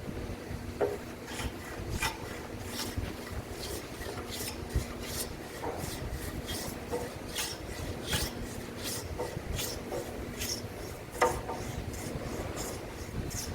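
A hand tool scraping and rasping on timber in short, repeated strokes, roughly two a second, with one louder stroke about 11 seconds in. This is hand-cutting of a wooden rafter.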